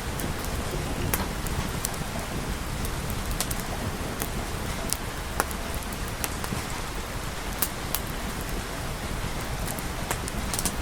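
Steady rain, with scattered sharp clicks and pops throughout.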